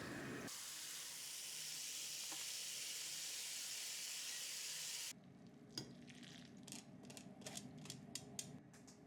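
Food sizzling in a frying pan, a steady hiss that cuts off suddenly about five seconds in. It is followed by a quieter run of light clicks and taps.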